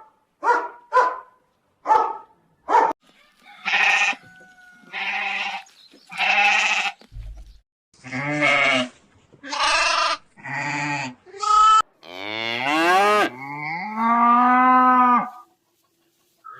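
A dog gives a quick run of short barks, then goats bleat repeatedly, about nine calls, some long and wavering with their pitch sliding up and down.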